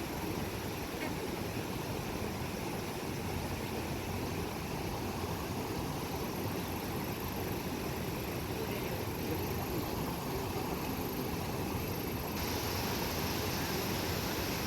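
Steady rushing roar of a monsoon-swollen mountain river, turning brighter and hissier about twelve seconds in.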